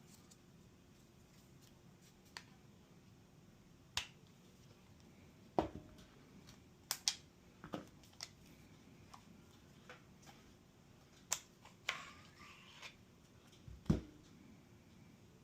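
Scattered sharp clicks and knocks from a CZ Shadow 2 pistol being handled and taken apart, with a short scrape about twelve seconds in and the loudest knock near the end.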